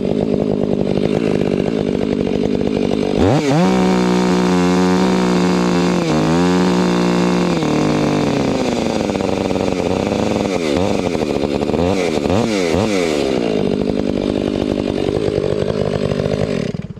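Chainsaw engine running loud. About three seconds in it revs up to a high, held pitch with small dips, then revs up and down several times before the sound drops away sharply near the end.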